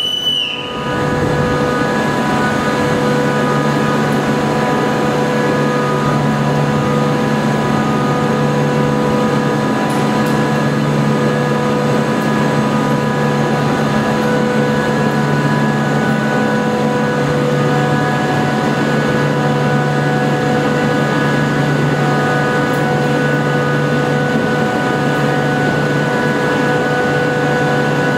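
Steady hum of a standing Pendolino electric train's onboard equipment: a low drone with several steady whining tones over it. A short high beep sounds right at the start.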